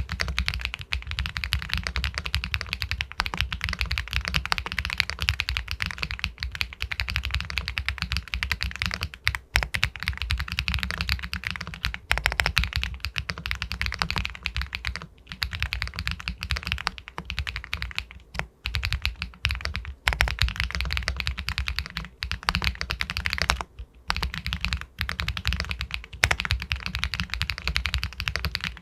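Continuous fast typing on an Epomaker Galaxy 80 Pro full-aluminium mechanical keyboard with White Jade linear switches: a dense run of key clacks, broken by a few brief pauses.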